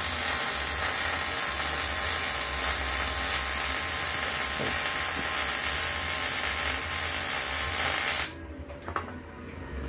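Steady, rasping workshop power-tool noise that cuts off suddenly about eight seconds in.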